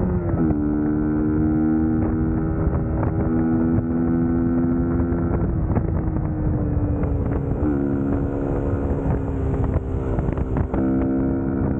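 Suzuki GSX-S150's single-cylinder four-stroke engine running under way, its note dropping sharply about half a second in and shifting again near the end, with wind noise on the microphone.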